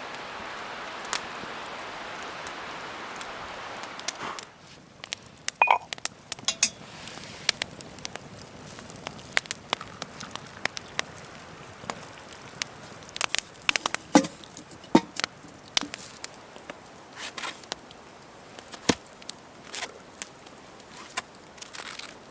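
Campfire crackling, with wood snapping and popping in irregular sharp clicks. A steady rushing hiss fills the first four seconds, then cuts off.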